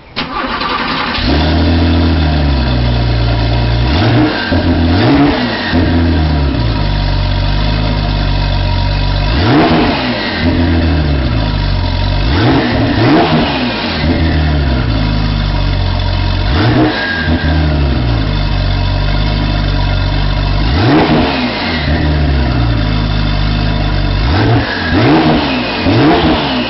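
Porsche 911 twin-turbo 3.5-litre flat-six starting up and idling, blipped to a quick rise and fall in revs every few seconds.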